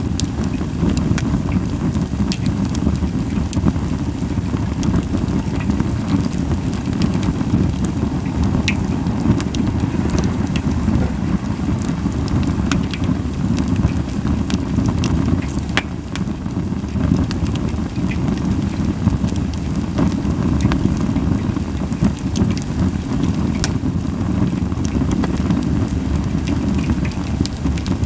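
Japanese white pine firewood burning in a campfire, crackling with scattered sharp pops over a steady low rumble, with little hissing.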